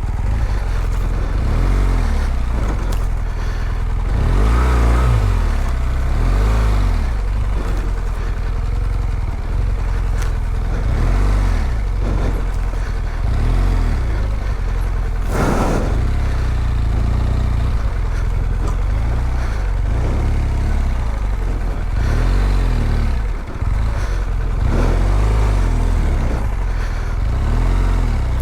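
BMW R1200GS boxer-twin engine revving up and down over and over as the bike struggles to pull itself out of deep mud, with a brief rush of noise about halfway through.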